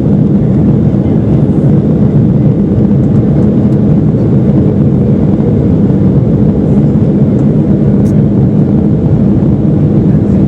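Steady, low cabin noise of a jet airliner in flight shortly after takeoff, the engines and rushing air heard from inside the passenger cabin.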